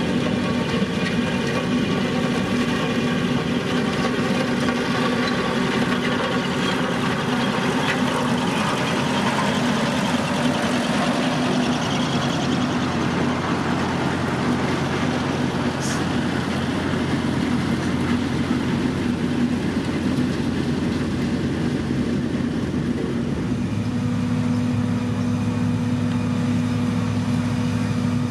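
Diesel engine of heavy road-construction machinery running steadily, its engine note changing about two-thirds of the way through.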